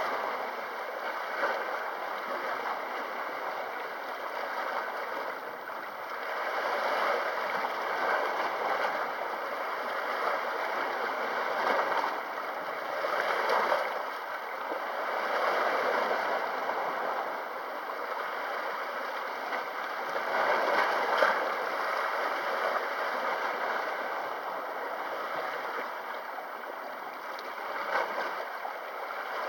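Sea waves washing against the shore, a steady rush that swells and eases every few seconds.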